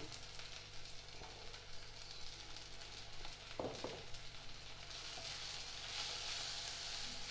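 Onions and tomatoes frying in oil in a non-stick kadai, a faint steady sizzle. It grows fuller about five seconds in as a spatula stirs the masala powder into the pan.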